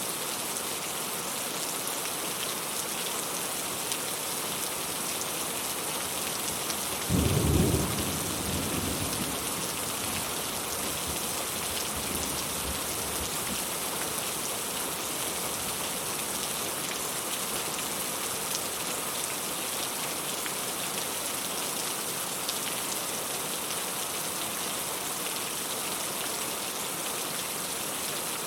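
Steady rain falling in an even hiss, with one short clap of thunder about seven seconds in that rumbles away over the next few seconds.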